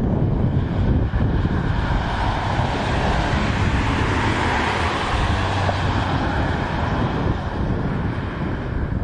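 Hyundai i30 N test car with its turbocharged four-cylinder driving past on track. Engine and tyre noise swells toward the middle and eases off again, with wind buffeting the microphone.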